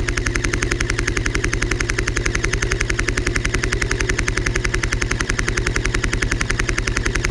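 Full-auto gunfire: a rapid, even stream of shots that runs without a break.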